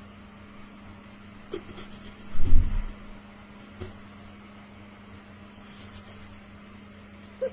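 Quiet indoor room tone with a steady low hum. A dull thump comes about two and a half seconds in, and a few light clicks come before and after it.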